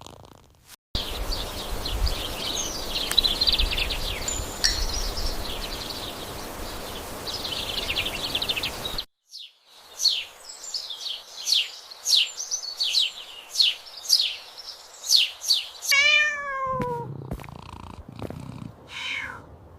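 A run of quick, high, downward-sliding chirps, then a cat's meow falling in pitch about sixteen seconds in.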